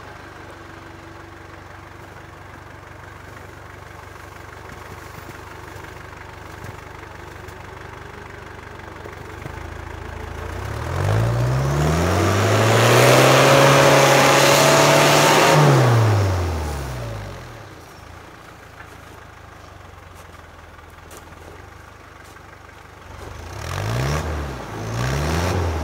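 Off-road 4x4's engine idling steadily, then revved up and held for about five seconds before falling back to idle, working the vehicle up a snowy slope. Two short revs come near the end.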